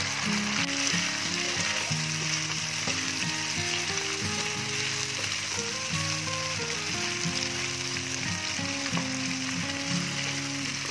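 Beef and cauliflower in a thick red chilli sauce sizzling steadily in a non-stick wok, stirred and turned with a metal spatula, with light scraping. A soft background melody plays underneath.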